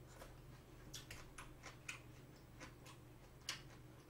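Chewing a mouthful of spicy steamed clams and bean sprouts close to the microphone: faint, irregular wet mouth clicks, about two or three a second.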